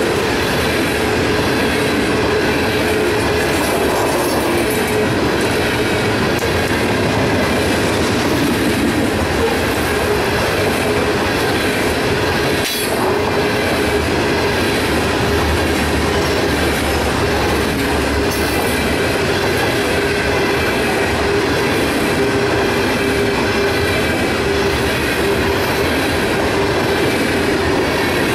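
Loaded coal hopper cars of a freight train rolling past steadily, their wheels clicking over the rail joints, with a continuous metallic wheel squeal.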